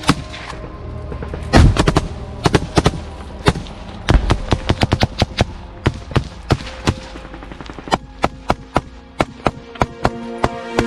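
Gunfire from automatic rifles in short bursts and single shots, sharp cracks at irregular spacing, with a quicker run of shots about four seconds in.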